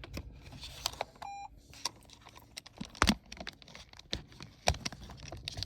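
Clicks and knocks of things being handled inside a car, with one short electronic beep about a second in and two louder knocks later on.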